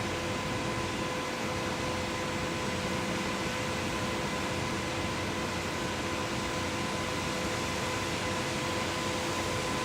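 Concrete pump's engine running steadily: a constant noisy drone with a steady hum, no strokes or changes.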